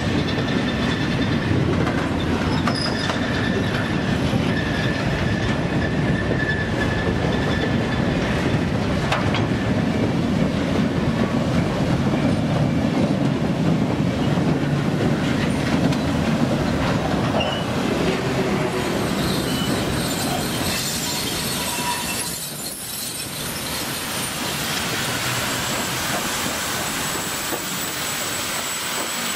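Freight cars rolling slowly past, their steel wheels rumbling and clacking over the rail joints with a thin wheel squeal over the first several seconds. About 22 seconds in the sound changes to a steady hiss of steam at the side of steam locomotive 1309.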